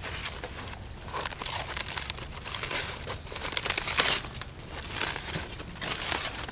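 Irregular crinkling and rustling noises in uneven bursts, the loudest about four seconds in, over a steady low rumble.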